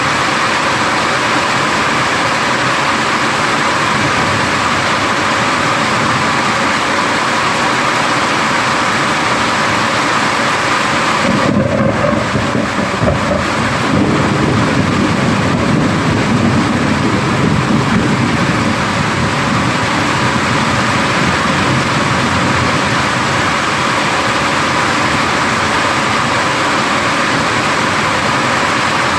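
Heavy rain falling steadily, with a rolling rumble of thunder that comes in about twelve seconds in and dies away over several seconds.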